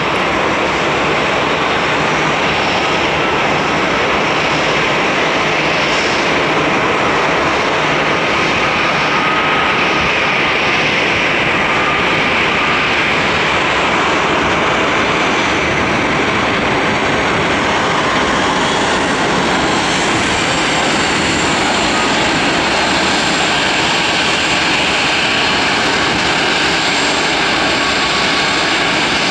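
Boeing 757-200 jet engines running close by as the airliner lands: a loud, steady rush of jet noise with a faint whine above it.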